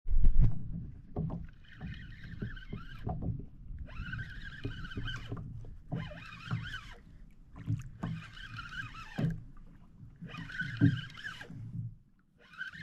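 A fishing reel being cranked in short, repeated spells, each a steady whine lasting about a second, as a deep-dropped rig is brought up from the bottom. The reel noise sits over water and handling noise on the kayak, with a thump right at the start.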